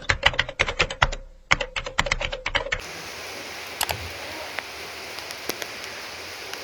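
Rapid run of sharp clicks and taps for about three seconds, then a steady hiss of rain with a few faint drips.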